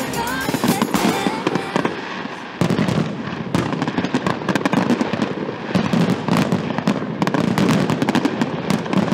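Fireworks display: aerial shells bursting in quick succession with dense popping and crackling. There is a brief lull about two seconds in, then a thick, continuous run of bangs.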